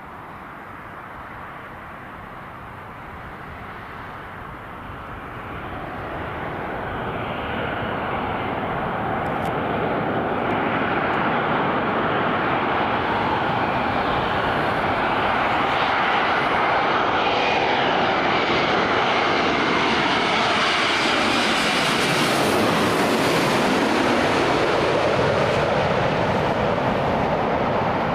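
Boeing 787-9 airliner's twin turbofan engines on landing approach, growing steadily louder as the aircraft nears, then passing overhead with the engine whine sliding down in pitch late on.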